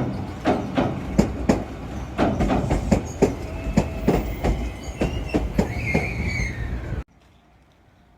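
Shizuoka Railway electric train running past, its wheels clicking over rail joints about two or three times a second, with a thin wheel squeal in the second half. The sound cuts off abruptly about seven seconds in.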